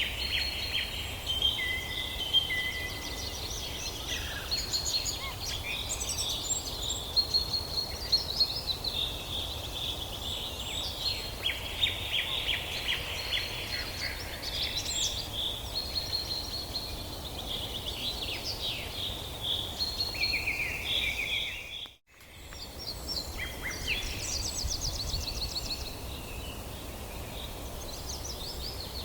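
Several birds chirping and trilling over one another, with a steady low background rumble. About three quarters of the way through the sound drops out for a moment and fades back in.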